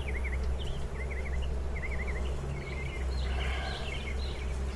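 A small songbird chirping repeatedly in quick short phrases over a steady low hum.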